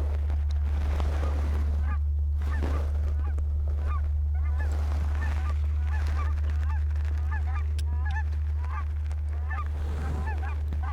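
A flock of Canada geese honking, many short calls overlapping and repeating over a steady low rumble.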